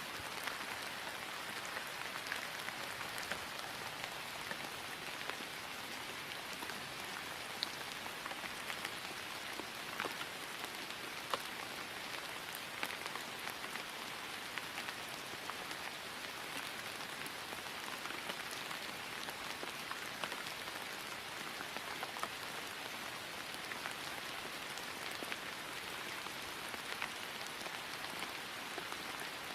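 Steady rain falling on grass, an even hiss with many small drop ticks scattered through it.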